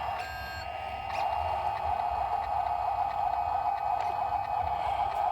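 Heavy machinery running steadily, with a deep engine rumble and a strong mid-pitched drone that grows louder about a second in. A short beep from a reversing alarm sounds near the start.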